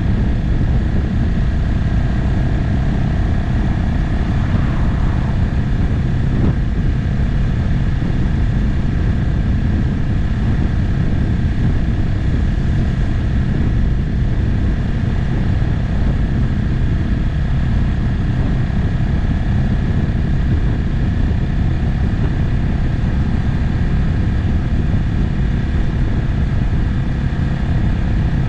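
Motorcycle riding at a steady speed: the engine runs evenly under a thick rush of wind and road noise.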